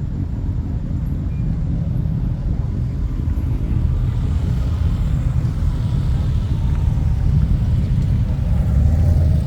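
Motorcycle engines running, a steady low rumble that grows slightly louder toward the end.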